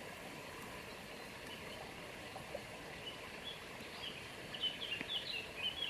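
A songbird chirping: a quick run of short, high, falling notes starting about four seconds in, over a steady outdoor hiss.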